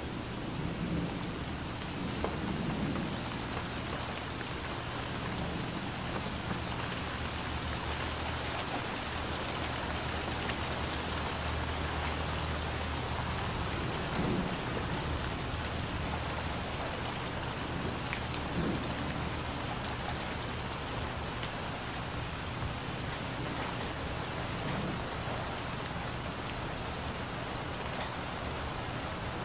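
Steady rain falling on a swimming pool's water and its wet concrete deck: an even patter.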